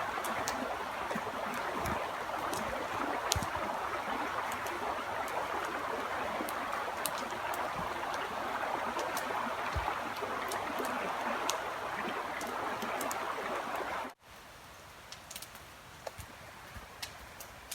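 Steady rain falling, an even hiss with scattered sharp ticks. It cuts off abruptly about fourteen seconds in, leaving a much quieter background with occasional ticks.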